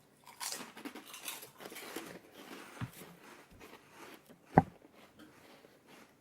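Hard, air-puffed fish crackers being bitten and crunched, crackly for the first couple of seconds and then quieter chewing. A single sharp click about four and a half seconds in is the loudest sound.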